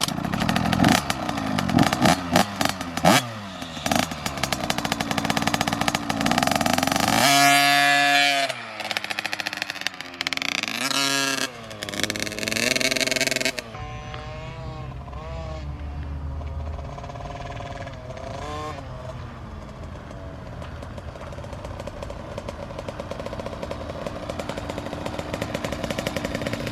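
Two-stroke dirt bike engine revving, its pitch rising and falling several times while loud for about the first thirteen seconds, then running quieter and steadier.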